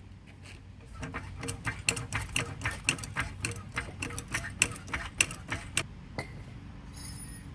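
Ratchet wrench clicking quickly, about four to five clicks a second, while running lug nuts onto a wheel. The clicking stops about a second before the end.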